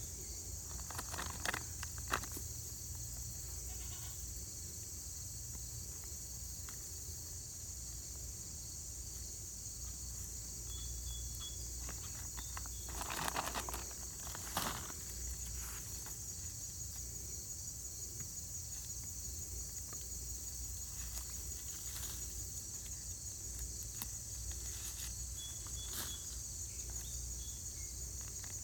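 Steady high-pitched chorus of crickets or other insects, with a few brief rustles and scrapes of hands digging in loose soil, the most noticeable about halfway through.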